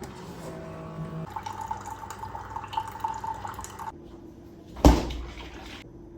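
Keurig coffee maker dispensing, coffee running into a mug with a steady hum, stopping about four seconds in. A single sharp knock follows about a second later.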